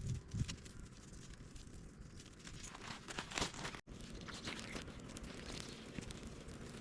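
Light crinkling and rustling handling sounds with scattered small clicks, broken by a sudden gap a little under four seconds in.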